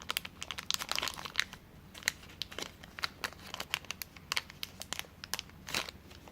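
Plastic packaging crinkling and crackling in irregular bursts as it is handled and pulled open by hand.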